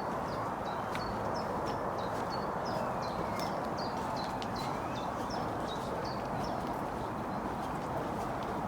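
Outdoor ambience: a steady background rush with a small bird singing a run of short, high, repeated chirps from about a second in until about six seconds.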